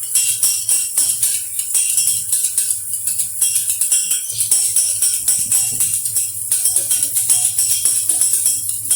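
Wire hand whisk beating milk in a metal pan, a rapid, irregular run of metallic clinks as it hits the pan, frothing the milk as it heats.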